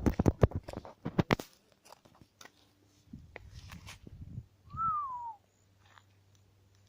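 Camera or phone being handled: a quick run of knocks and rubbing on the microphone in the first second and a half, then softer rustling. About five seconds in there is a single short falling whistle-like call.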